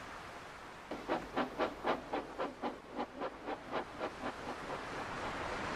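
Steam locomotive chuffing, about four puffs a second, that begins about a second in and fades away as the engine moves off.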